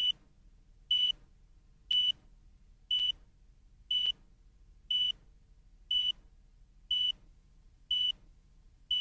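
Electronic beeper sounding short high beeps, one a second, about ten in a row, with silence between them.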